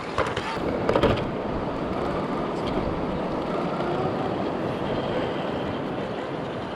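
RC crawler with a GMADE GS02F chassis driving over rough ground. Its brushless motor and drivetrain whine, rising and falling in pitch, over a steady rumble, with a few knocks near the start and about a second in.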